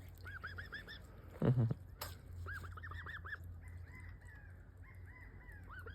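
Young domestic goose calling in short runs of soft, rapid peeps, with one louder, lower honk about a second and a half in. A steady low hum sits underneath.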